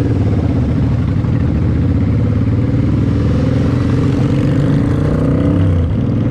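V-twin motorcycle engine running at road speed while riding, its note drifting slightly up and down.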